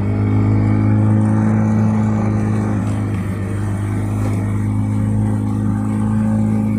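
Motorboat engine running steadily at a high, even pitch under way.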